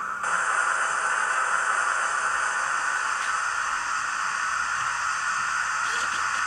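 Hornby HM7000 sound decoder in a Bachmann model LNER V2 steam locomotive, playing the A1/A3 steam sound file as the model runs: a steady hiss with no distinct chuffs.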